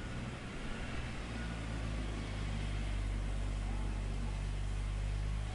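A steady, low mechanical hum with a hiss over it, even throughout.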